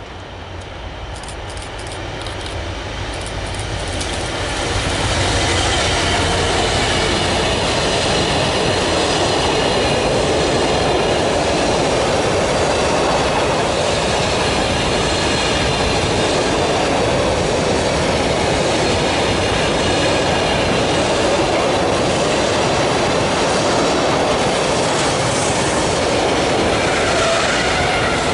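Class 66 diesel-hauled container freight train passing: the locomotive's two-stroke diesel engine grows louder over the first five seconds as it comes through, then a long rake of loaded container wagons rolls past at steady volume.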